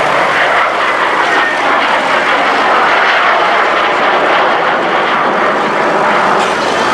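Gloster Meteor T.7's twin Rolls-Royce Derwent turbojets on a display pass, a loud steady jet noise with a faint high whine.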